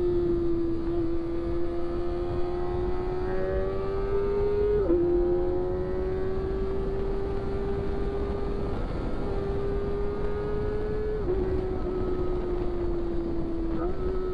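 Inline-four Kawasaki Ninja sport-bike engine running at high revs on the move. Its pitch climbs slowly and drops sharply at two upshifts, about five seconds in and about eleven seconds in, then jumps up near the end. Wind noise on the microphone runs under it.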